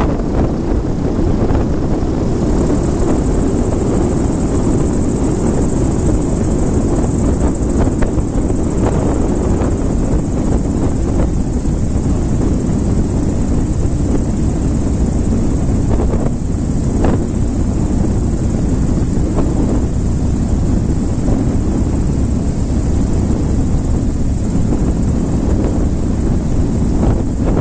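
Small propeller airplane's engine and propeller running steadily. A thin high whine comes in a couple of seconds in and holds.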